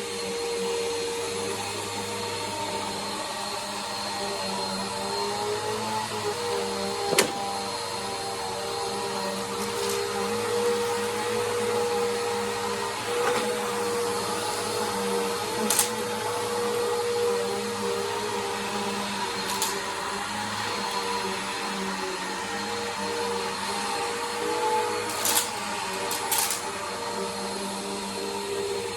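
Bissell Power Force vacuum cleaner running steadily, its motor holding an even hum with airflow hiss, broken by a few sharp clicks.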